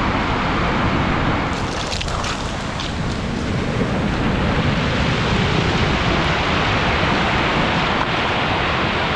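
Ocean surf breaking and washing up the beach in a steady wash, with wind noise on the microphone.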